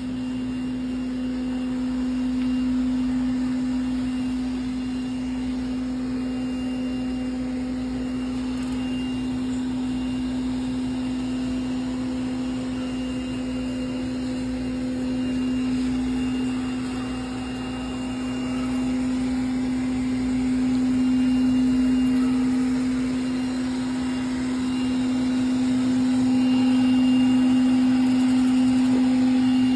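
Robot vacuum cleaner running: a steady motor hum that slowly grows louder towards the end.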